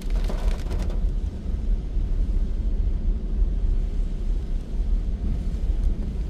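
Car driving: a steady low rumble of road and tyre noise, with a short hissing burst in the first second.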